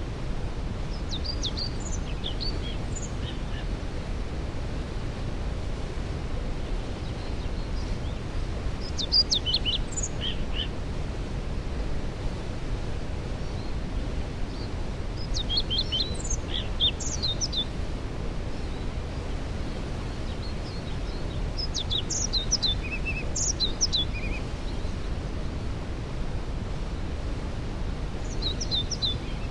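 Steady rushing of a waterfall. Over it, a songbird sings short phrases of high notes, five times, about every six seconds.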